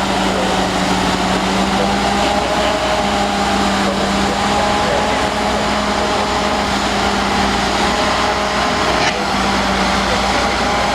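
Old Caterpillar D8 bulldozer's diesel engine running steadily at an even pitch.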